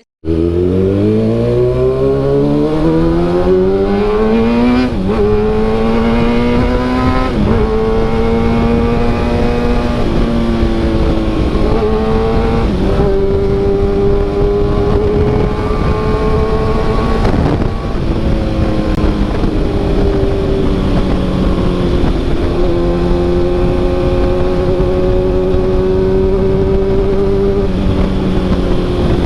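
Kawasaki ZX-6R inline-four engine through an SC-Project CRT carbon exhaust, ridden. It pulls up through the gears with rising pitch and quick drops at upshifts about five and seven and a half seconds in, then cruises at a steady pitch with small dips.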